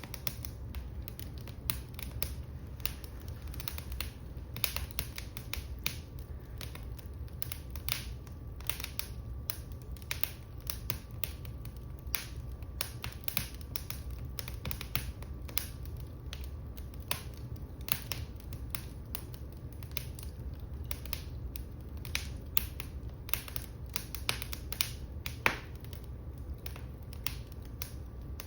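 Wood fire in a fireplace crackling: many irregular sharp pops and snaps over a low steady rumble, with one louder pop late on.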